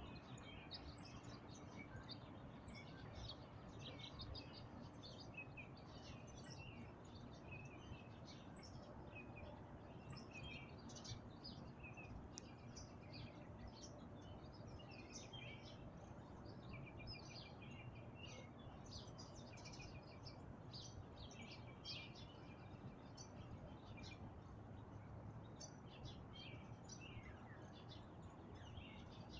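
Faint birdsong: a steady stream of quick chirps and short, varied phrases, with no break, over a low steady background rumble.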